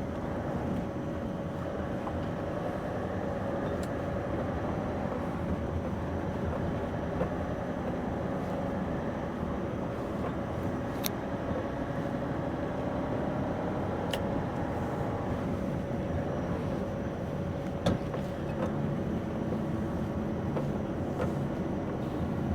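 Scania V8 diesel lorry engine running steadily as heard inside the cab, with road noise, at a low country-lane pace. A few faint clicks sound over it, one near the end a little louder.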